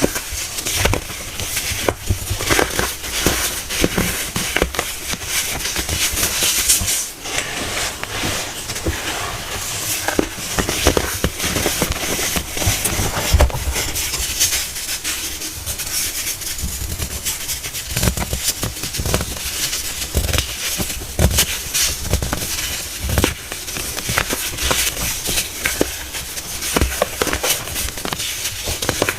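Compressed baking soda cones being crushed: a dense, continuous crunching and crackling.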